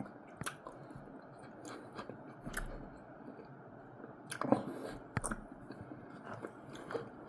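Close-up chewing and soft mouth sounds of someone eating, with scattered small clicks and smacks, a little louder about four and a half seconds in.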